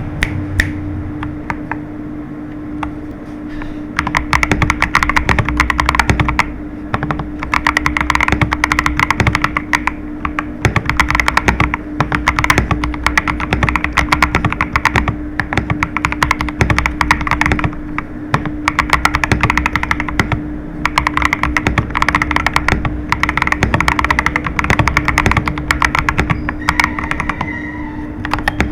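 GAS67 mechanical keyboard kit (hot-swap, gasket-style PC plate, silicone foam) being typed on fast: keystrokes in quick continuous runs with short pauses, lighter for the first few seconds and louder after that.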